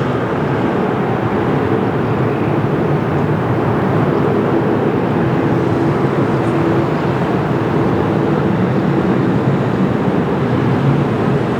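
Jet airliner engines running steadily as a loud, even rush with a faint low hum.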